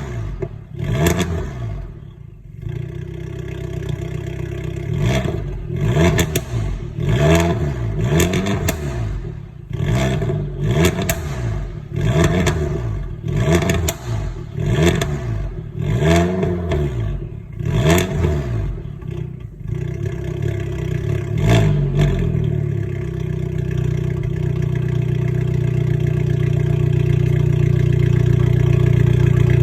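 Abarth 595 Competizione's 1.4 turbocharged four-cylinder, through a cat-deleted Akrapovic exhaust, being blipped over and over, each rev rising and falling with sharp crackles. About two-thirds of the way through the blipping stops and the engine holds a steady note that grows louder toward the end.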